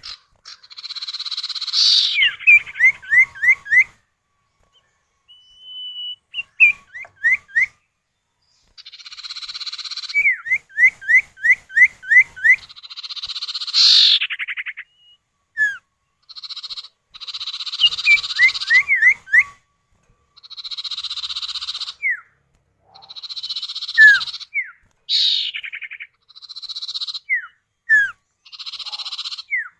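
Common ioras (sirtu or cipow) calling back and forth: quick runs of short rising whistles alternate with harsh, buzzy rasping calls about a second long, male and female answering each other.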